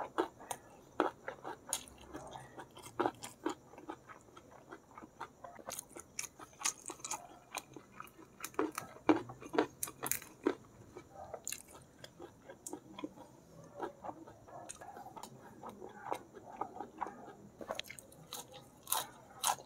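Close-miked eating: a person chewing squid and rice, with wet mouth clicks and smacks in a quick, irregular run. Near the end comes crunching as a leaf of fresh curly lettuce is bitten and chewed.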